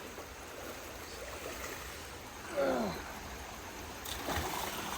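Steady rush of flowing stream water. A little past halfway a brief distant shout falls in pitch.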